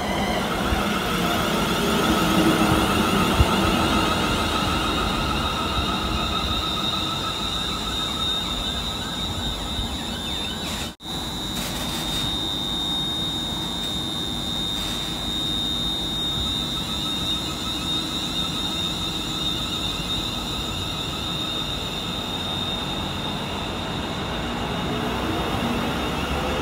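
ScotRail electric multiple-unit train running along the platform: a steady rumble of wheels on rail with a high, steady whine over it. The sound cuts out for a split second about eleven seconds in.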